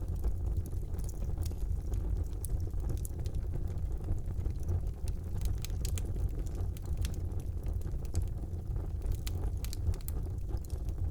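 Wood fire burning in a fireplace, a steady low rumble of the flames with irregular sharp crackles and pops from the burning wood.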